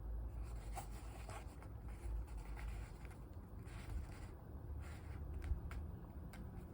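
Hands handling small items in an unboxing: soft rubbing and scratching with a few light ticks, over a low steady hum.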